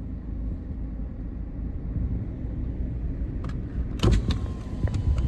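Car engine and road rumble heard inside the cabin, low and steady; about four seconds in, sharper clicks and outside noise come in.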